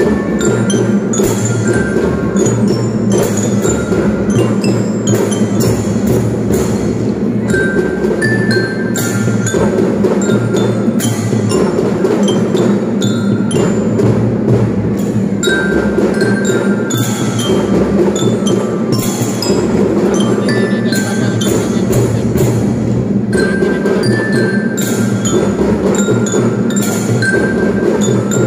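Children's drum band playing: marching drums keep a steady beat under a bright bell-lyre (glockenspiel) melody.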